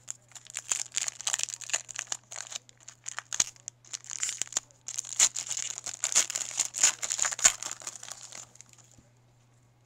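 A Topps Chrome baseball card pack wrapper being torn open and crumpled, giving a dense, irregular crackling that stops near the end.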